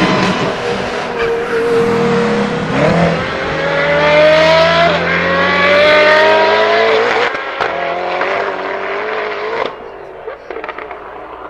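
Apollo Intensa Emozione's naturally aspirated 6.3-litre V12 accelerating hard. Its pitch climbs, breaks at a gear change about five seconds in, climbs again, then fades away from about seven seconds in.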